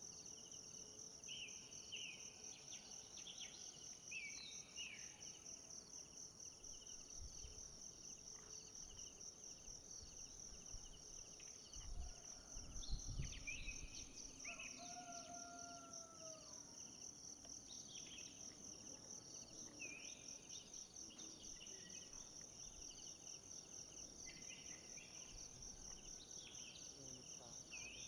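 Faint tropical forest ambience: a steady, high, pulsing insect trill with scattered short bird chirps and calls over it. Briefly, about halfway through, a low rumble.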